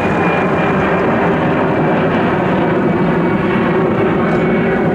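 Jet airliner engines at close range, a loud steady noise with a faint high whine.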